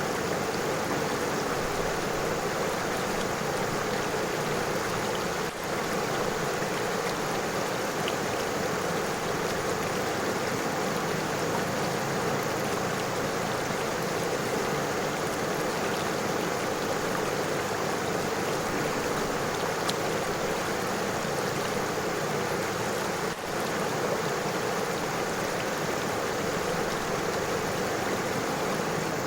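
A river flowing over stones: a steady rush of water.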